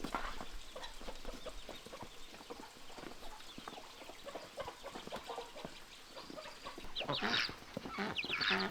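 Chickens clucking, with a louder burst of calls near the end.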